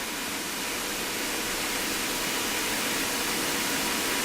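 Cessna A152 four-cylinder engine and propeller running up to takeoff power, heard as a steady rushing noise that grows louder over the first couple of seconds and then holds.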